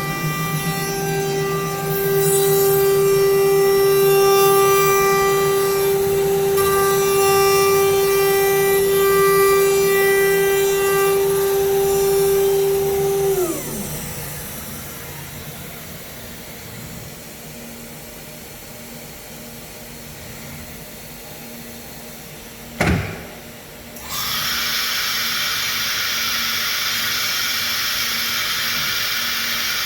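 CNC router spindle running with a steady high whine while cutting. About halfway through it winds down in pitch and stops. Near the end comes one sharp pneumatic pop, then a steady loud hiss of compressed air, typical of the automatic tool changer releasing the tool and blowing out the spindle taper.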